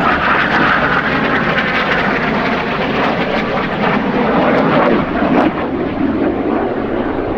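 Jet noise of an Alenia Aermacchi M-346 Master's twin turbofan engines as the trainer flies its display. It is a loud, steady rush that eases off a little after about five seconds.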